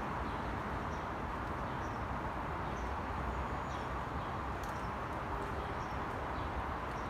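Short, faint, high chip notes of a northern cardinal, roughly one a second, over a louder steady rushing background noise.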